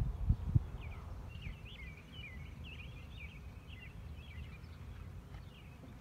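A songbird singing a quick run of chirping, warbling notes about a second and a half in, over a steady low rumble. A couple of bumps in the first half second.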